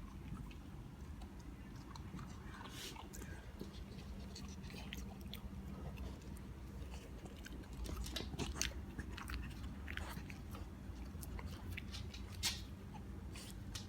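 A pit bull puppy chewing and gnawing, with scattered small crunching clicks and a couple of louder ones, over a steady low hum.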